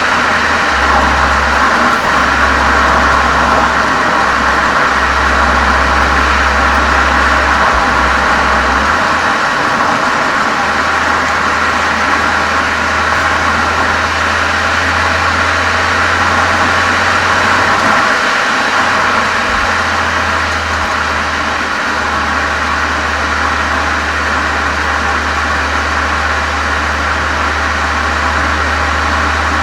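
Volkswagen Golf 7 GTI's turbocharged 2.0-litre four-cylinder running steadily through a Cox aftermarket muffler and resonator chamber, picked up by a microphone mounted outside at the rear of the car.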